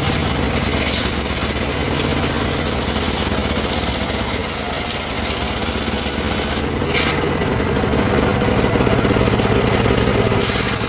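Engine-powered wood saw running steadily, with a brief high hiss about seven seconds in.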